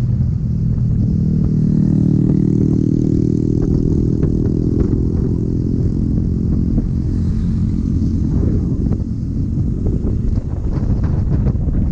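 Motorcycle engine running steadily while riding, with a heavy low rumble of wind on the microphone; the engine note is strongest for the first half and eases off toward the end.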